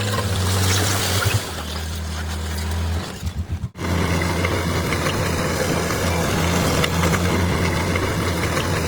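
Bulldozer's diesel engine running steadily. Its note drops about a second and a half in, flutters and cuts out for an instant a little before halfway, then runs on steadily.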